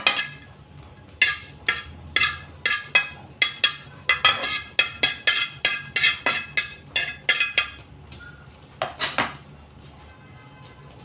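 A metal utensil knocking and clinking against a pan while garlic is stirred in melted butter. A quick run of sharp, ringing strikes, about two or three a second, goes on for several seconds, then two more come a little later.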